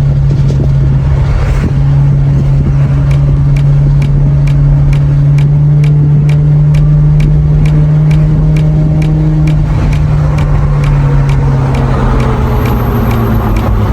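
Maserati GranTurismo's V8 running at a steady cruise with a low, even exhaust hum, its pitch sinking a little after about ten seconds as the car eases off. A light ticking, about three ticks a second, runs alongside.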